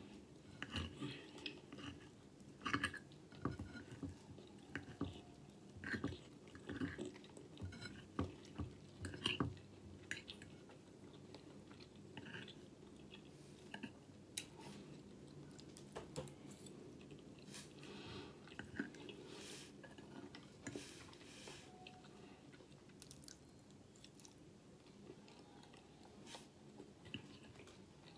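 A person chewing mouthfuls of pancake and egg close to the microphone, with soft wet mouth clicks. The chewing is busiest and loudest in the first ten seconds, then grows sparser and quieter.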